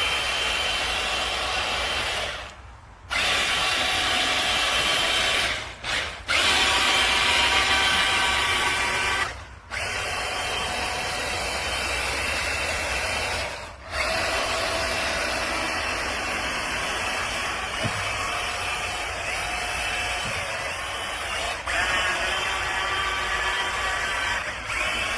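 Small electric motor and gears of a Monster Jam Grave Digger remote-control monster truck whirring with a steady whine. It cuts out briefly about five times and starts again.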